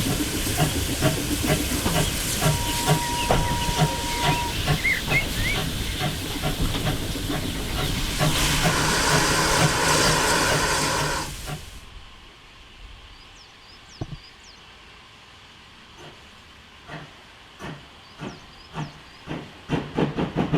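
GWR 14xx 0-4-2 tank engine working steam: loud steam hiss with even exhaust beats about twice a second, and a high steam whistle held for about two seconds, starting about two seconds in. About halfway the sound cuts to a quieter, more distant locomotive whose exhaust beats come faster and faster as it pulls away, with birds chirping.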